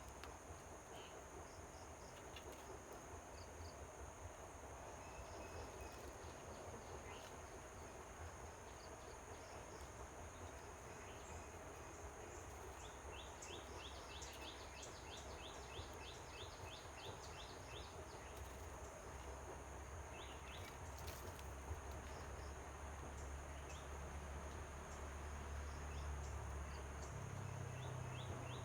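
Faint outdoor ambience of insects trilling steadily at a high pitch, with a rapid run of short high chirps about halfway through and a low rumble that swells near the end.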